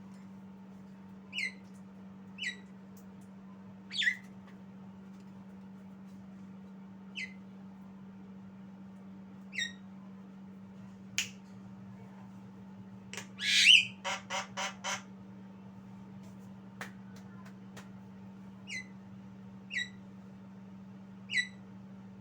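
Javan myna giving short, sharp squawk calls, each a quick downward sweep, about eight of them spaced a few seconds apart. Near the middle comes one louder call, followed by a quick run of five pulsed notes. A steady low hum runs underneath.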